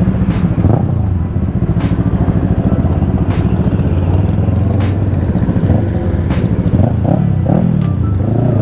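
Sport-bike engines running in a group, with a few short rev blips about a second in and again around seven seconds.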